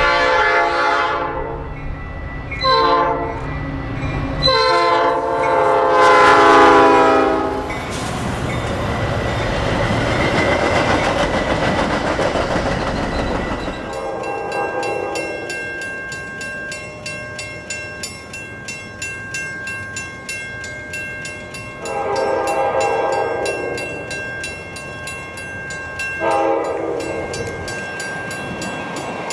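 Diesel passenger locomotive horn, typical of an EMD F40PH, blowing a series of long blasts that drop slightly in pitch as the train passes, followed by the roar of the passing train. About halfway through, a grade-crossing bell starts ringing in a rapid, steady rhythm while the horn sounds more long blasts.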